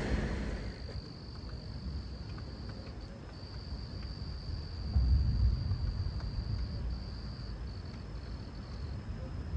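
An insect's steady high-pitched trill, held with a few brief breaks. A low rumble swells about halfway through.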